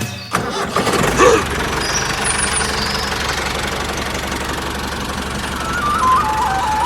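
An engine starts up about a second in and runs steadily. Near the end a high tune that moves in steps begins over it.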